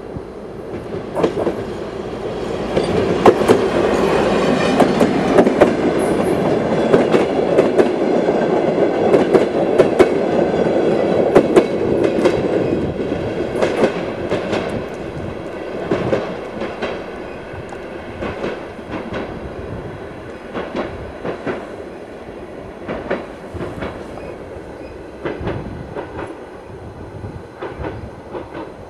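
DR1A diesel multiple unit passing at speed, loudest from about three to thirteen seconds in, with a rapid run of wheel clicks over the rail joints. It then fades as the train draws away, the clicks thinning out.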